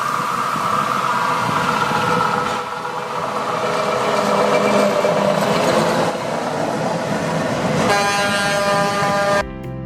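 Truck hauling ballast hopper wagons along the rails, a steady loud running noise with some held tones. About eight seconds in, a horn sounds for about a second and a half, then drum-led music cuts in just before the end.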